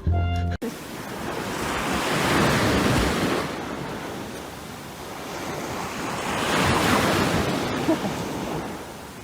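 Ocean surf washing in, a rushing noise that swells and fades twice, about four and a half seconds apart.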